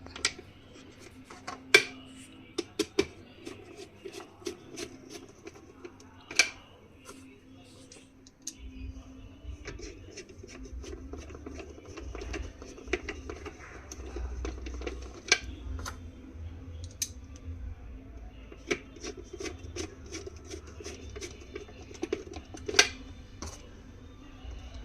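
A screwdriver and screws clicking and scraping against the plastic housing of a Panasonic mixer grinder as the new motor's mounting screws are driven back in, with a few sharper knocks. The handling thickens into a continuous scraping patter with a low rumble after about eight seconds.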